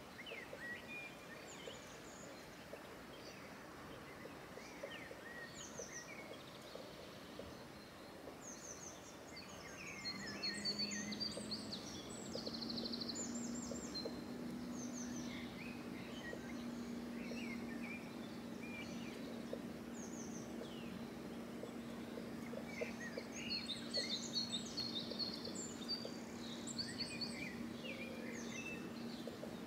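Birds chirping in the background, with a steady low hum that comes in about ten seconds in.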